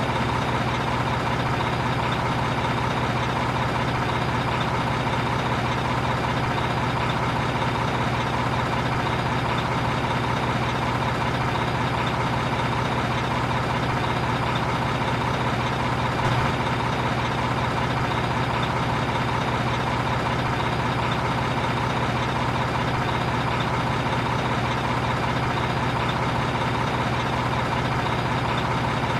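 Truck engine idling, steady and unchanging throughout.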